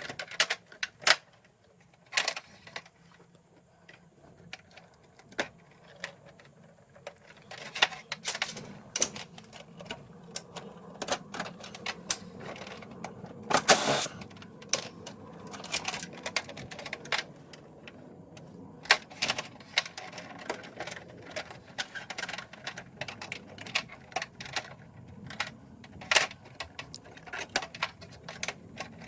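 Irregular clicks, knocks and clatter of hand tools and parts being handled during air-conditioner disassembly, with a louder rattle about fourteen seconds in, over a faint steady hum.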